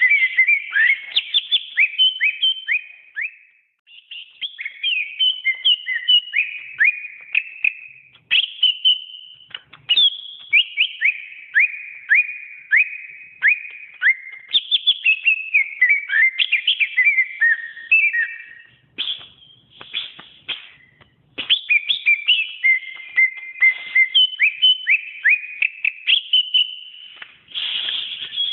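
Cucak ijo (green leafbird) singing a long run of fast whistled notes, many sliding downward in pitch, in phrases broken by brief pauses.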